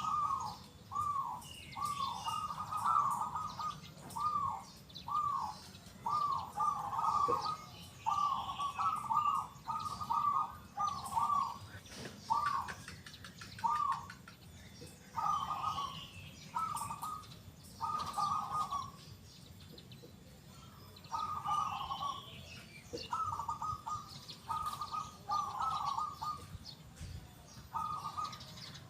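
Zebra dove (perkutut) cooing over and over in short, rolling, clear phrases, with one longer pause about two-thirds of the way through.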